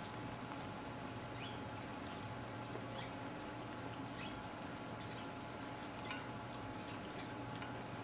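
Faint, short bird chirps a few times from outside, over a steady low hum and scattered light ticks.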